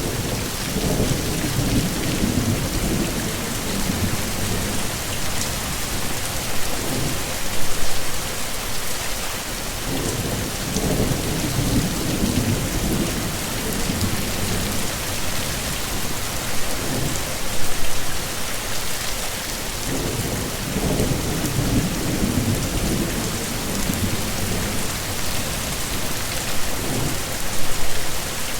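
Heavy, steady rain hissing down, with low rolls of thunder swelling and fading about every ten seconds.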